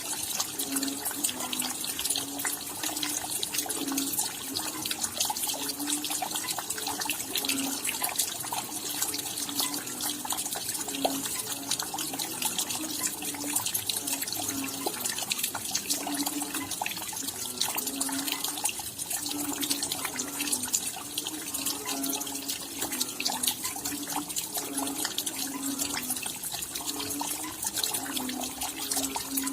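Steady rain: a dense patter of raindrops, with water running and dripping and irregular low plops throughout.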